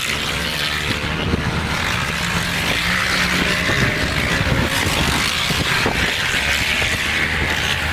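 Motocross dirt bike engines running steadily under a constant hiss.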